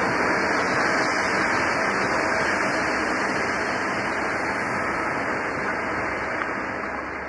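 Steady rolling noise of a long freight train's covered hopper wagons passing close by, steel wheels running over the rails, easing slightly quieter toward the end.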